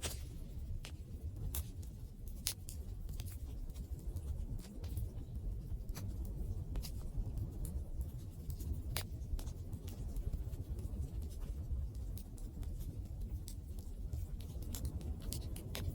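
Wood campfire crackling: irregular sharp pops and snaps of burning wood over a steady low rumble.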